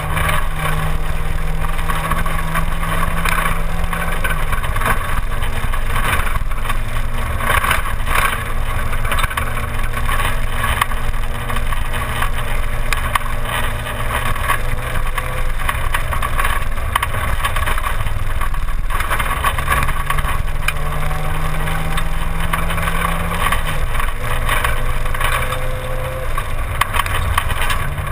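Simca 1000's rear-mounted four-cylinder engine running hard under way on a rally stage, with tyre and road noise throughout. The engine note steps down in pitch about four seconds in, climbs again later and steps down once more near the end.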